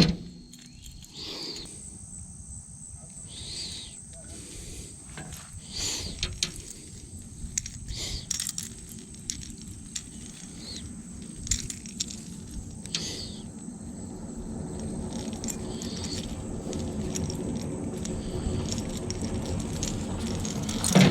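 Insects buzzing steadily in a high thin tone, with scattered soft swishes and clicks, while a low rumble builds toward the end.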